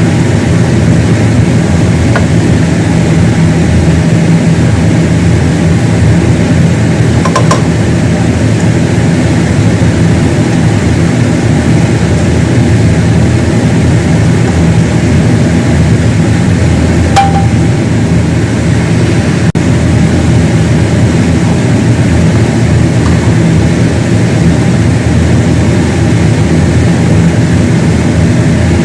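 A loud, steady machine hum with a few faint clicks, about seven seconds in and again about seventeen seconds in.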